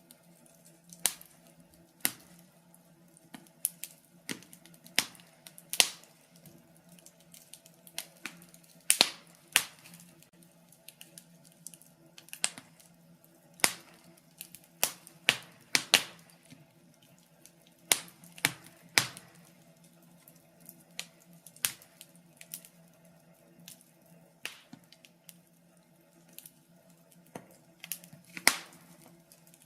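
Wood fire crackling in a fireplace: irregular sharp pops and snaps, one to several a second, some louder than others, over a faint steady hum.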